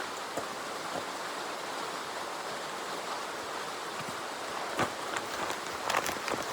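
Steady rushing outdoor noise, with a few short clicks or taps about five and six seconds in.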